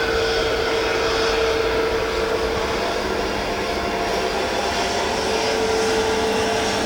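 Jet airliner's engines running steadily: a held whine over a rushing noise.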